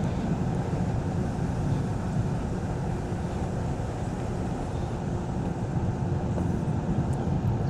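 Steady low rumble of wind on the microphone and a Onewheel electric board rolling along a trail.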